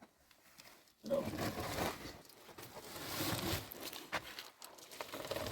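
Rustling and crinkling of material being handled, starting about a second in.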